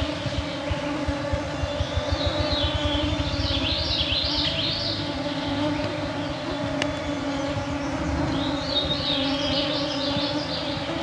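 A cloud of mosquitoes humming steadily around the microphones, with a songbird singing two phrases of quick high notes, about three seconds in and again near the end.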